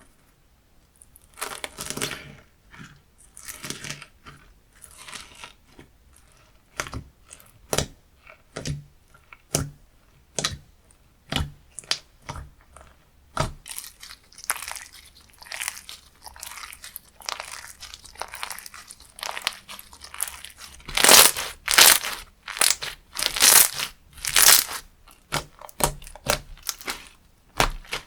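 Hands squeezing and pressing a crunchy textured slime, giving irregular crackling crunches and pops. The loudest run of squeezes comes about three quarters of the way through.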